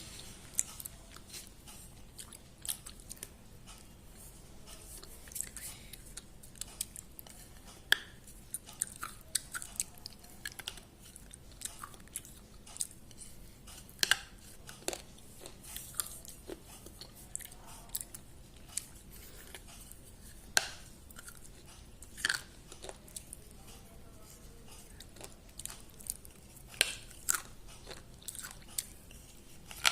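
A person chewing and biting food close to the microphone: irregular sharp crunches and mouth clicks, several a second at times, with quiet chewing between them.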